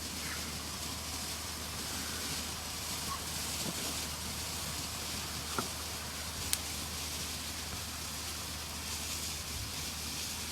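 Steady outdoor background hiss with a low hum under it, and two faint sharp pops about a second apart near the middle.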